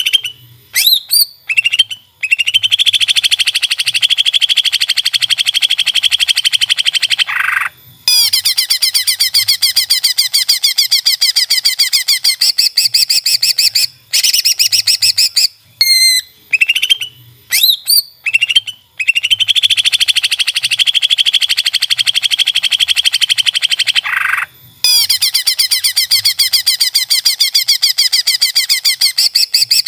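Cucak ijo (green leafbird) singing loudly. A few sweeping whistled notes lead into long, very rapid, high chattering trills. The same phrase repeats about every 14 seconds, as in a looped recording.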